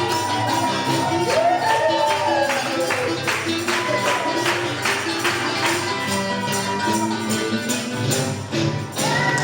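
Traditional Argentine folk music: a sung melody over steady, rhythmic percussion strikes.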